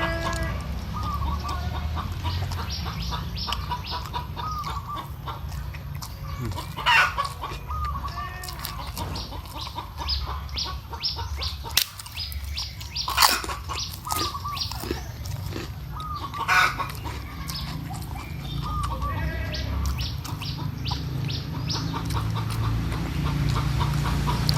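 Domestic chickens clucking over and over in short calls, with a few louder sudden sounds breaking in, over a steady low rumble.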